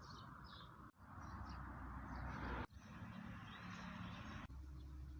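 Faint outdoor ambience with small birds chirping in short bursts near the start, broken by abrupt cuts every second or two.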